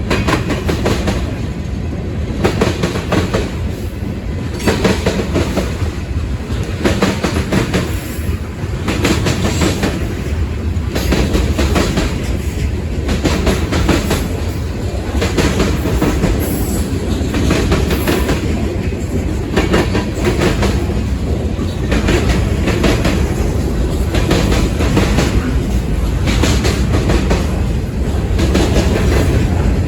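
Freight cars of a mixed freight train rolling past, a steady rumble with wheels clicking over the rail joints every second or two.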